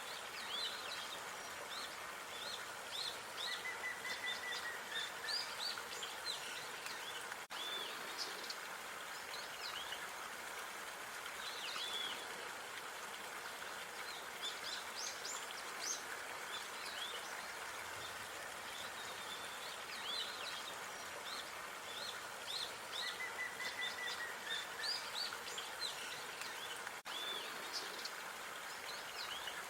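Park ambience: small birds chirping and calling in quick short notes over a steady background hiss, with a brief trill twice. The same stretch repeats about every 20 seconds.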